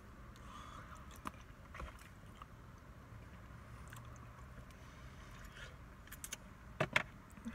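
Faint close-up chewing and mouth sounds of a man eating chicken and rice. A few sharp clicks of a plastic fork against a plastic food container come through, the loudest cluster near the end.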